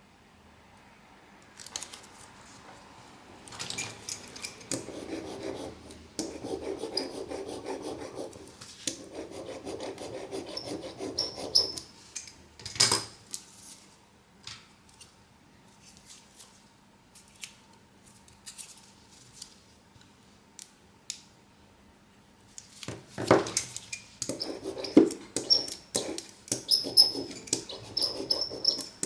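Hand-tool work on a smartphone: stretches of scraping and rubbing, with sharp clicks of tools and parts being handled. There is a quieter stretch in the middle with only occasional clicks.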